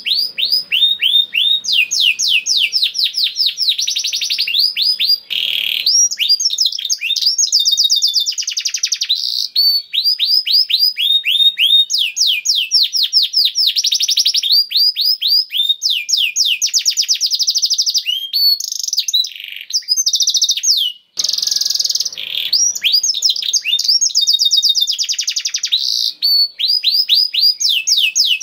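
Domestic canary singing a long, continuous song of rapid trills. Each trill is a fast run of repeated high notes, many of them sliding down in pitch, and the trills change from one phrase to the next with only a few brief pauses.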